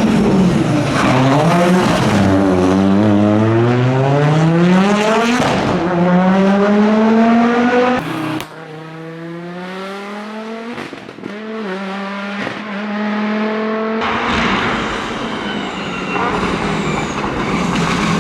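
Audi Quattro S1 rally car's turbocharged five-cylinder engine at full throttle, its revs climbing hard through the gears. In the middle it is suddenly quieter and heard from farther off. Near the end it is close again, under a loud rush of noise.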